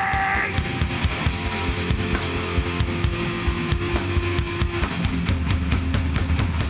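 Live hardcore/metal band playing an instrumental passage: distorted electric guitars, bass and fast drum-kit hits.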